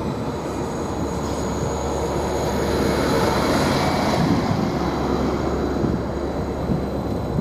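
Greater Anglia Class 755 bi-mode multiple unit running into the platform, a steady rumble with a low hum that swells in the middle and eases off as the train slows.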